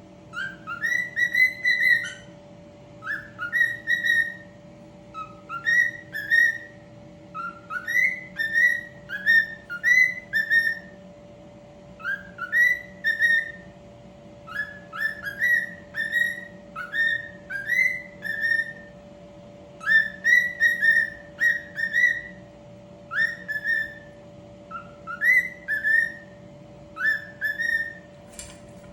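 Cockatiel whistling a repeated tune: phrases of short rising, slurred notes, each phrase a second or two long, over a steady low hum.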